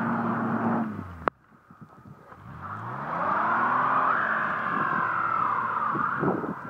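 A car stuck in deep snow revving its engine with the wheels spinning, a whine rising and falling with the revs. The sound cuts off sharply about a second in, then the revving climbs again and fades near the end.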